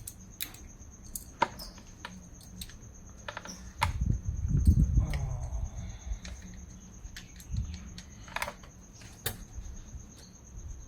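Scattered light metallic clicks and taps of a spanner working at a thermostat-housing bolt in the engine bay, with a dull rumble of handling about four to five seconds in. A steady high trill sits underneath.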